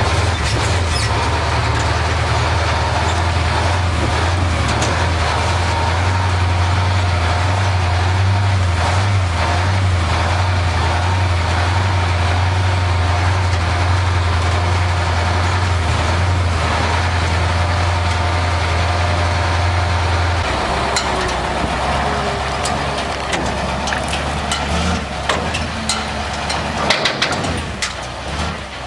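KrAZ-255B 6x6 truck's V8 diesel engine running with a steady low drone. About two-thirds of the way through, the drone drops away and the sound slowly fades. A few sharp clicks come near the end.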